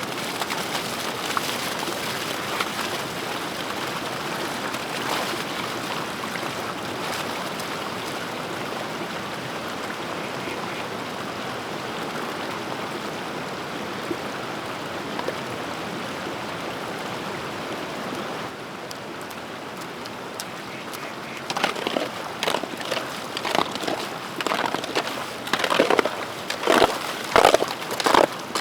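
Steady rushing of water, then about three-quarters of the way through a run of irregular, louder splashes and sloshes.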